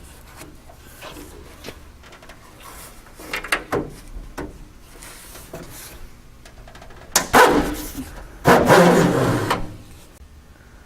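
Rubber glass run channel strip being handled and pulled out of the steel door channel, with light rustles and clicks, then two louder dragging scrapes about seven and eight and a half seconds in.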